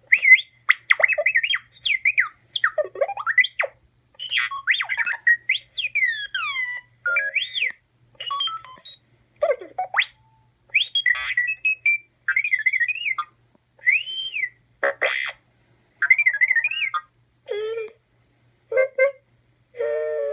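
Droid Depot R-series astromech droid with no personality chip fitted, making its stock beeps and whistles: quick warbling chirps and swooping rising and falling whistles in short phrases with brief pauses between them, with a few lower buzzy blips near the end.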